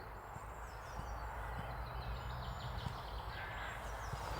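Faint bird chirps over a steady low outdoor rumble.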